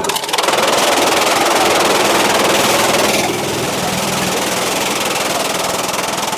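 Sawmill machinery running loud and steady, with a noisy, whining edge that drops away about three seconds in, leaving a lower, steady running sound.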